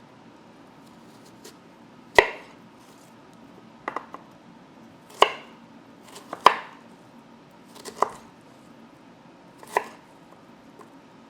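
Knife chopping pear on a cutting board: about six separate, unhurried strokes a second or two apart, each a sharp knock with a short ring.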